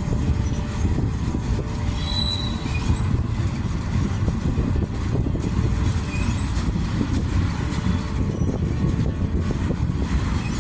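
Slow freight train rolling past: a steady low rumble of cars and wheels on the rails with irregular clanks, and short faint wheel squeals about two seconds and six seconds in.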